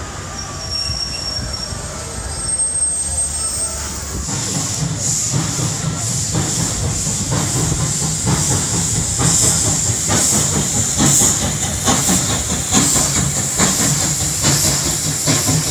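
Trains moving through a station: wheels click steadily over the rails under a low rumble, with a steady high steam hiss from a steam locomotive. It all grows louder about four seconds in.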